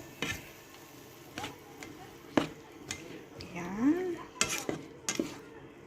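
A cooking utensil stirring vegetables in sweet and sour sauce in a pan, with several separate knocks and scrapes of the utensil against the pan.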